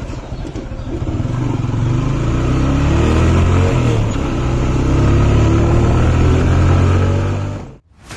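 Motorcycle engine running under way, growing louder and revving, most likely the rider's TVS Apache RTR 150; the sound cuts off suddenly near the end.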